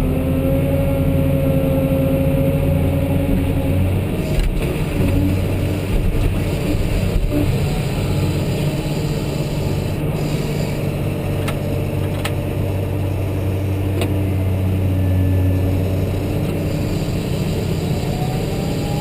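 Cat 988H wheel loader's diesel engine running steadily with the throttle lock holding about 1900 RPM, heard from inside the cab; its note shifts about four seconds in. A few sharp knocks sound over it.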